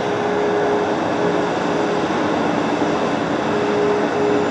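Boeing 737 jet engines running, a steady rushing noise with a steady whine held underneath it.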